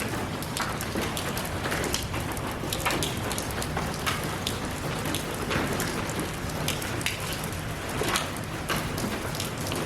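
Steady rain falling, with many separate drops ticking and splashing on a hard surface close by.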